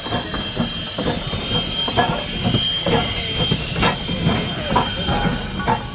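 A passenger coach rolling along the track, heard from inside: a low rumble with irregular clanks and knocks several times a second. A faint, thin, steady high squeal fades out near the end.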